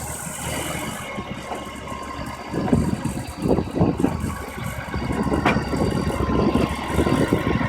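Off-road 4x4 engine running, with a steady low hum and irregular heavier surges from about three seconds in, plus a single sharp click near the middle.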